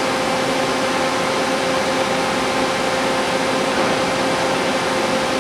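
Sharp STA-4460 big-bore CNC lathe running with its spindle turning at a set speed: a steady machine hum with a constant whine over an even noise.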